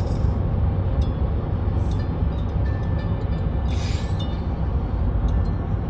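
Steady low rumble of a moving vehicle, with a few small clicks and a brief hiss about four seconds in.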